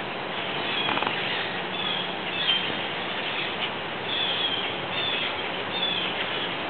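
Birds chirping over a steady outdoor hiss: a series of short, high, falling chirps, several of them spaced about a second apart.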